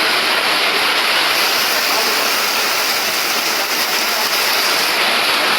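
Heavy storm rain pouring down in a loud, steady hiss.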